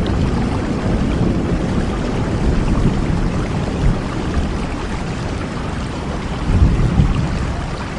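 Steady rain falling, an even hiss over a deep low rumble that swells briefly near the end.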